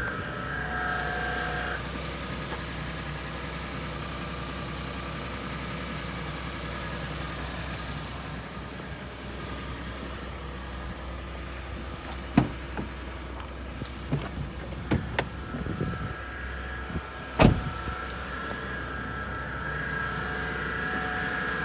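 Ford EcoBoost truck engine idling with a steady hum and a high whine, with several sharp clicks in the second half, the loudest about three-quarters of the way through. The owner hears ticking and an off-and-on growl since a small coolant leak, and does not know the cause.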